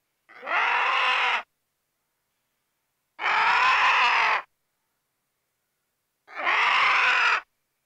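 Vulture calls: three drawn-out calls, each a little over a second long, repeated about every three seconds with dead silence between them.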